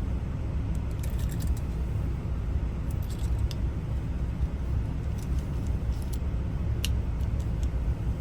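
Small metallic clicks and ticks of a lock cylinder and its wafers being handled, over a steady low rumble.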